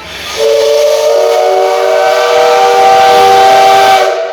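Steam locomotive whistle blowing one long, very loud blast, several tones sounding together over a hiss of steam. It starts about half a second in and stops near the end.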